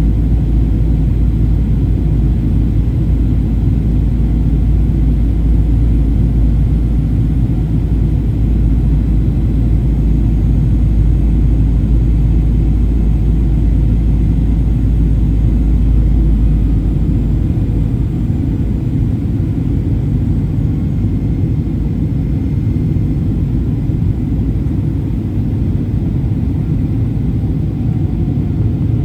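Steady in-cabin rumble of a Boeing 737-800 in flight, a mix of engine and airflow noise heard from a seat near the front. The deepest part of the rumble eases off a little past halfway through.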